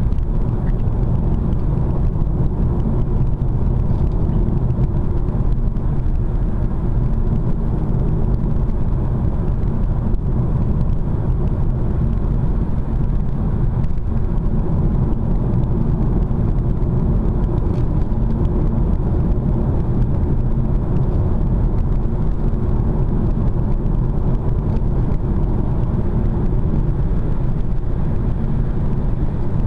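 Steady engine and tyre noise of a car cruising at about 80 km/h, heard from inside the cabin.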